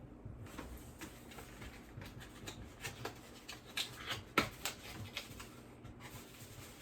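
Quiet handling noises as a small clock is unpacked and turned over in the hands: scattered light clicks and rustling, with the sharpest click a little past the middle.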